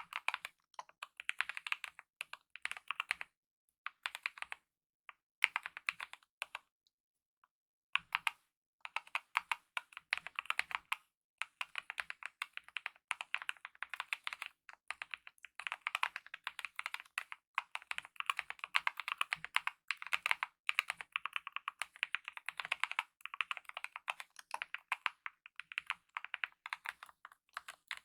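Typing on a Kemove mechanical keyboard with lubed optical red linear switches and DSA-profile keycaps: fast runs of key presses with short breaks, and one pause of about a second and a half about a quarter of the way in.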